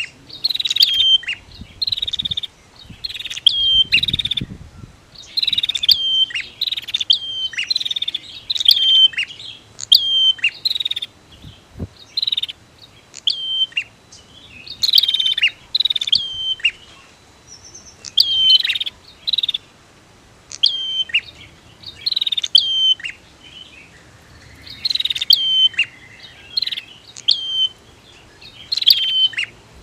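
Prenjak (bar-winged prinia) calling: a continuous series of sharp, high chirps, each dropping in pitch, coming in quick clusters of one or two a second.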